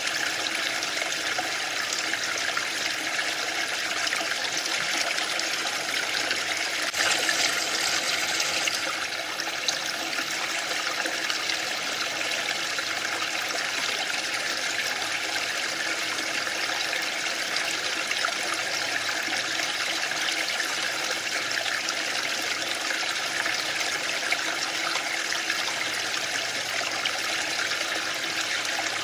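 Waterfall: a steady rush of falling water, briefly louder and brighter about seven to nine seconds in.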